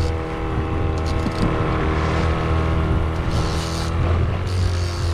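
Boat motor running steadily at trolling speed, a constant low hum with bursts of high hiss on top.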